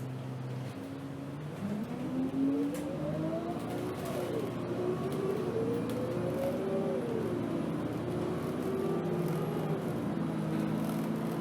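Alexander Dennis Enviro 200 bus engine pulling away from idle. Its pitch climbs and then drops at each automatic gear change, twice, before settling into a steady run.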